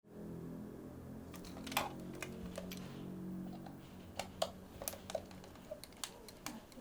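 Irregular light clicks and taps of small parts being handled while a Sony HVR-DR60 recorder is taken apart, over a low hum that fades after the first few seconds.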